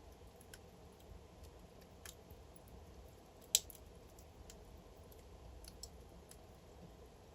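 Wood fire crackling in a fireplace: scattered sharp pops from burning logs, one louder pop about halfway through, over a faint low rumble of the flames.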